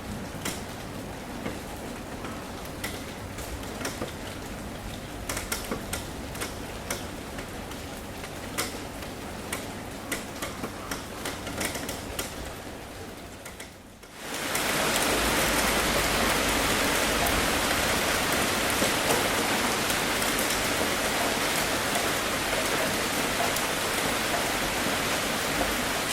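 Rain on a tin roof: at first separate drops tick sharply on the metal over a light patter, fading away about fourteen seconds in. Then heavy rain comes in all at once, a dense, steady and louder downpour.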